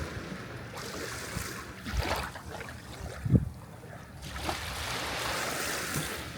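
Sea waves washing in twice, each a swelling hiss of surf. Between them, about three seconds in, there is a brief dull low thump, the loudest moment.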